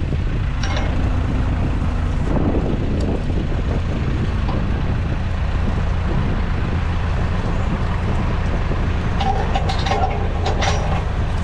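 Tractor engine running steadily under load, with scattered knocks and rattles as it drives over rough ground.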